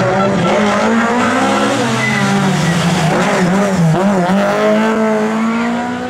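Rally car engine revving hard under load, its pitch wavering up and down as it accelerates, dipping about four seconds in and then climbing again.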